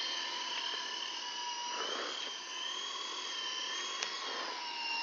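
Small electric remote-control helicopter in flight: a steady high-pitched whine from its motor and rotor, wavering slightly in pitch.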